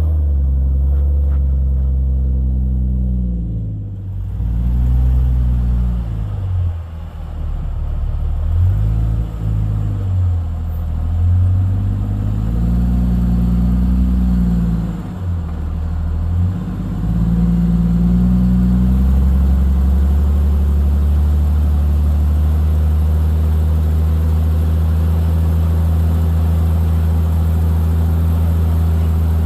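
Jeep Cherokee XJ engine under repeated throttle while rock crawling, its pitch rising and falling again and again for the first two-thirds. It then settles into a steady run near the end.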